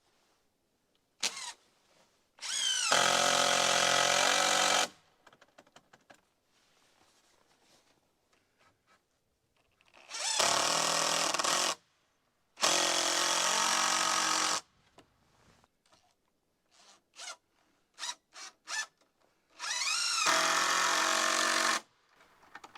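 Power drill driving screws into wood, in four runs of about two seconds each. Each run spins up to a steady whine, with a few short trigger blips between them.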